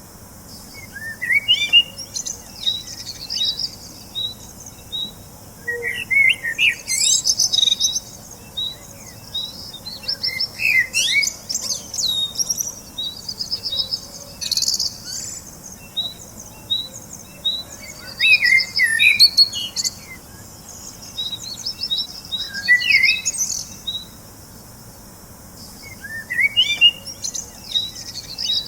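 Several birds chirping and singing: a steady series of short high notes, about two a second, with bursts of warbling song every few seconds.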